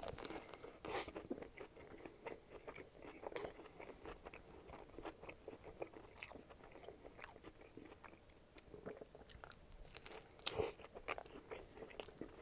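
A person biting into and chewing a McDonald's McDouble cheeseburger, close to the microphone: faint, irregular clicks and smacks of the mouth, with a few louder ones about a second in and near the end.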